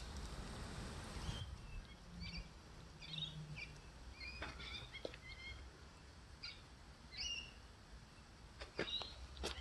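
Small birds chirping in short, scattered calls over a soft hiss that stops a little over a second in; a few sharp clicks near the end.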